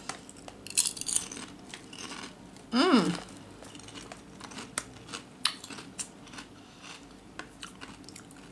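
A person biting and chewing crisp potato chips, with irregular small crunches throughout. About three seconds in there is one short hum of the voice that rises and falls in pitch.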